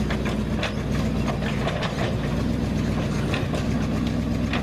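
A vehicle engine idling steadily, with a few short clicks over it.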